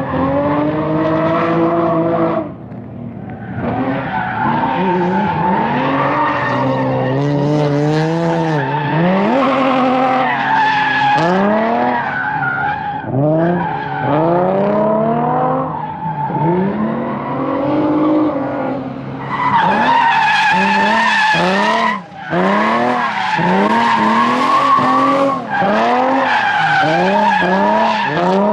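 Turbocharged Nissan VQ V6 drift car's engine revving up and down over and over, each rise and fall lasting a second or two, as the car drifts with its tyres squealing steadily under the engine note. Brief lifts off the throttle break the sound a few times, the sharpest about two-thirds of the way through.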